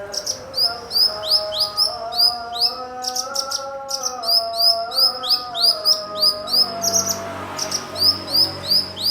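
Cucak cungkok singing: runs of short, quick rising chirps, about two a second, over a lower sustained whistled tone that shifts slowly in pitch and fades out late on.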